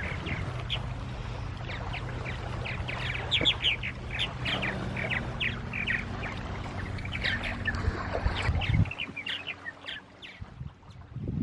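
Many small birds chirping, with quick, short calls tumbling over one another. A low steady drone runs underneath and stops about nine seconds in, after which the calls thin out.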